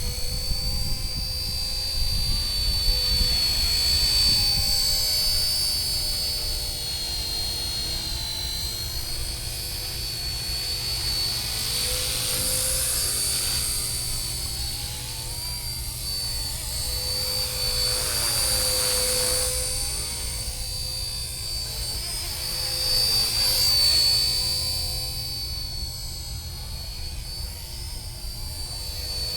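Small electric RC ERA UH-1 Huey model helicopter in flight: a steady high-pitched motor whine over a low rotor buzz, swelling louder a few times as it moves about.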